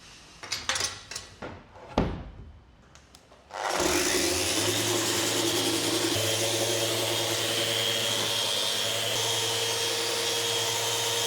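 A few knocks and clacks of something being handled, then a machine starts about three and a half seconds in and runs steadily with a whirring hum.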